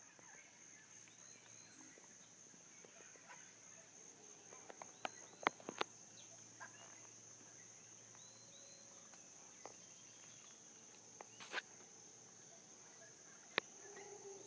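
Faint, steady, high-pitched insect trill, with a few faint distant bird chirps and several sharp clicks scattered through the middle.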